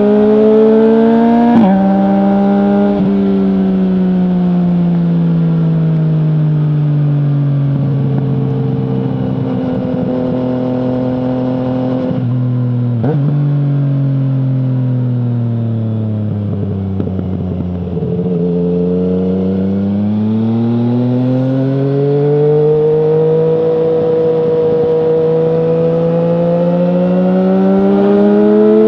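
2020 Yamaha MT-09's 847 cc inline-three through an Akrapovic full exhaust with no dB killer, being ridden. It pulls up to a gear change about a second and a half in, then winds down slowly on the overrun with a couple more shift clicks to near idle a little past halfway. It then accelerates away, holds a steady speed, and rises again near the end.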